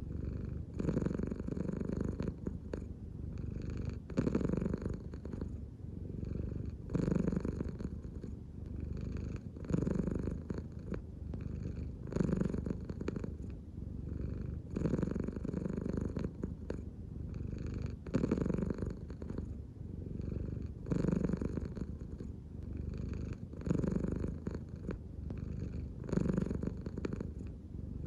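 American Shorthair cat purring steadily, the purr swelling louder about every three seconds in time with its slow belly breathing.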